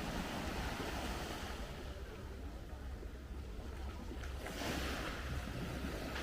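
Black Sea surf washing onto the shore: one wave's hissing wash at the start and another swelling in about four and a half seconds in, with wind rumbling on the microphone.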